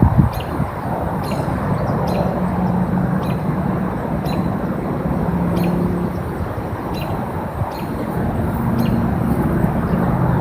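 Outdoor background of a steady low rumble of distant traffic, with a short high tick or chip repeating about every two-thirds of a second.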